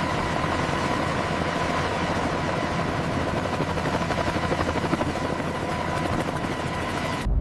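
Helicopter in flight: rapid rotor chop over a steady turbine whine, cutting off abruptly near the end.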